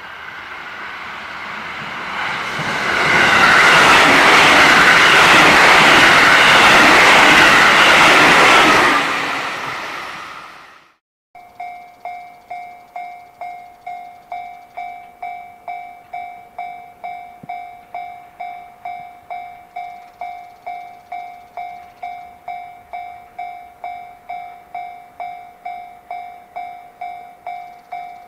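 A train passes close by: the noise builds over the first few seconds, holds loud, then fades away by about ten seconds in. After a short break, a Japanese level-crossing warning bell rings steadily, about two dings a second.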